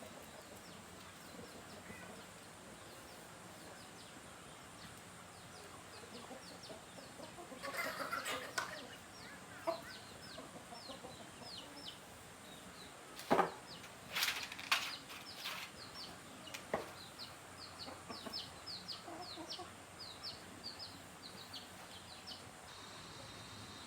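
Birds chirping in many quick, high, falling chirps, with a few sharp knocks around the middle.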